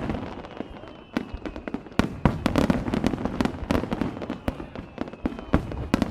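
Fireworks popping and crackling: a rapid, irregular run of sharp pops, some in quick clusters, over a low rumble.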